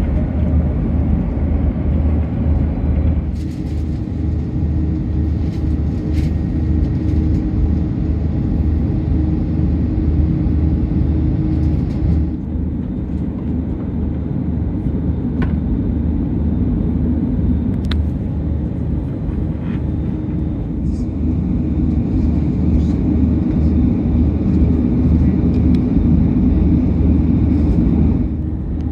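Airbus A330-200 airliner cabin noise: a steady low rumble of the engines and airframe heard from inside the cabin. It changes abruptly a few times, and a few faint clicks sound over it.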